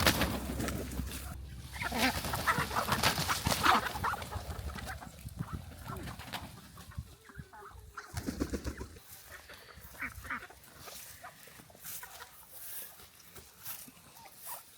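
Caged poultry calling and clucking in irregular bursts, busier in the first half and thinning out after about eight seconds.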